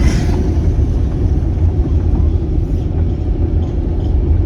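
Car driving along: a steady low rumble of engine and road noise heard from inside the cabin.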